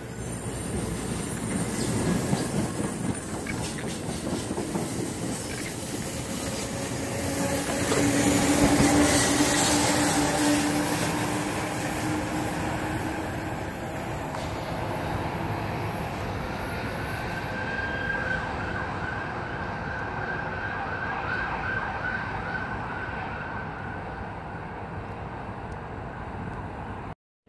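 NJ Transit commuter trains on the rails: a steady rumble of passing cars that swells loudest with a held tone about a third of the way in, then a thin high wheel squeal for several seconds after the halfway mark.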